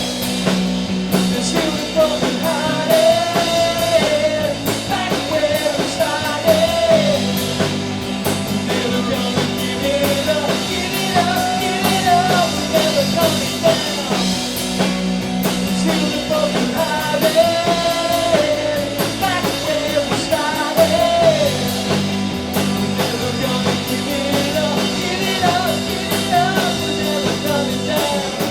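Live rock band playing a song with guitar and drum kit, a melodic lead line gliding over the steady accompaniment.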